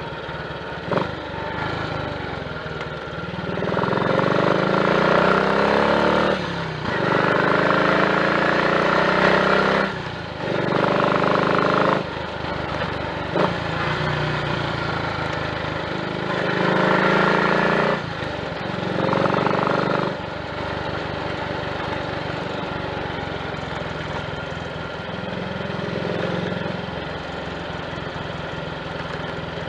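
Triumph Tiger Cub's 199 cc single-cylinder four-stroke engine pulling hard on the road: its note rises under the throttle and dips briefly at each gear change, five times in the first twenty seconds, then settles to a steadier, quieter cruise.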